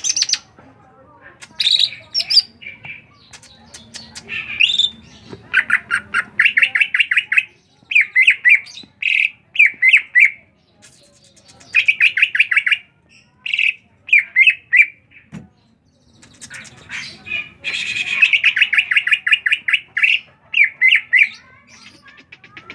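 A bird chattering in bursts of fast, trilled notes, each burst about a second long, broken by short pauses and mixed with sharper high squeaks.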